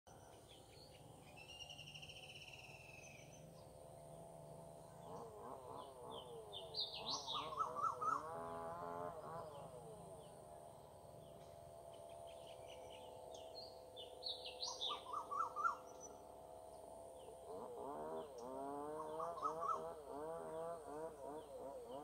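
Birds chirping and calling, with a trilled call about two seconds in and quick runs of chirps now and then. Under them, a lower wavering warble swells twice, through the middle and again near the end.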